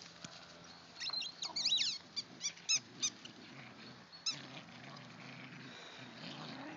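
High-pitched squeaking: about eight short squeaks, each rising and falling in pitch, bunched together from about a second in, then spaced out, with a last one just past the middle.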